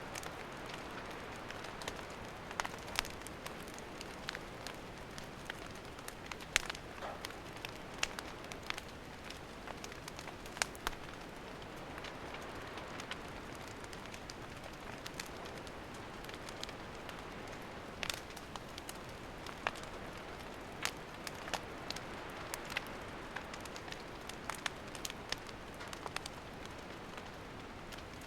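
Wood campfire burning: a steady soft hiss of flames with irregular crackles and pops of the firewood, a few sharper snaps standing out.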